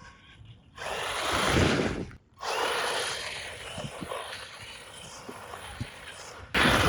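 Haiboxing 2995 brushed 4x4 RC desert buggy driving over rough ground: tyre and gravel noise with knocks and a faint motor whir, in short clips that cut in abruptly about a second in, again after a brief gap past two seconds, and once more near the end.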